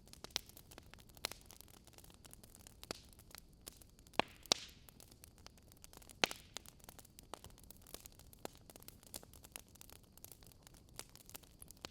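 Wood fire burning in a fireplace, crackling with irregular sharp pops over a faint steady hiss; the loudest pops come about four and six seconds in.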